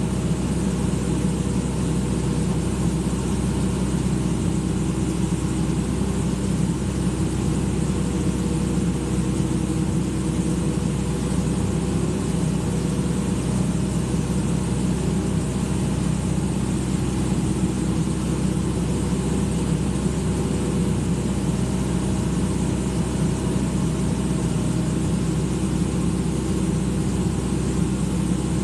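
Excavator's diesel engine running steadily at a constant speed, a continuous low drone with no changes in pitch or level.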